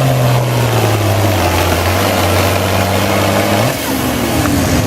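International Harvester 966 tractor engine pulling a weight sled under heavy load. The engine note drops about a second and a half in as the engine lugs down, holds low, then eases off near the end as the pull finishes.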